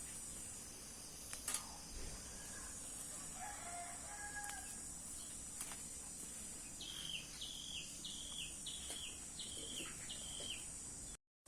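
Quiet outdoor ambience: a faint, distant rooster crow a few seconds in, then a bird giving six short, quick, high calls in a row, over a steady high hiss.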